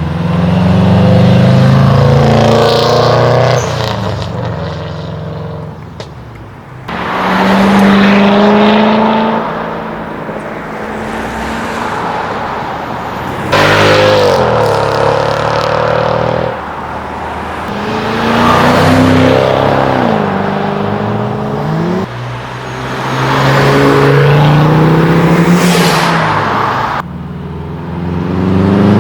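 A string of modified car engines accelerating away one after another, about five passes in all. Each engine's pitch climbs and then drops back at gear changes, and the sound switches abruptly from one car to the next.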